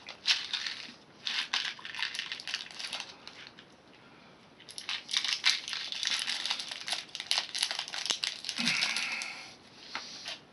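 Plastic candy packaging crinkling as it is handled, in two spells of quick crackling with a short pause about three and a half seconds in.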